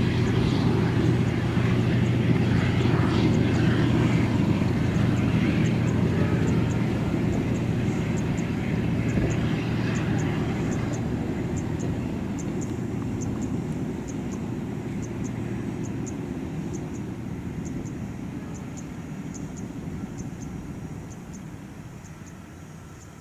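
Diesel-hauled passenger train moving away along the track: a steady low diesel engine drone with wheel noise, growing steadily fainter as the train recedes.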